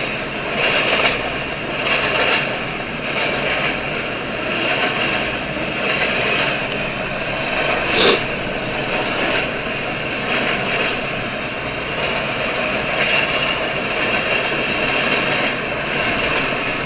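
Freight cars of a Canadian National mixed freight train rolling past: a steady rumble and rush of steel wheels on rail, with a single sharp clank about eight seconds in.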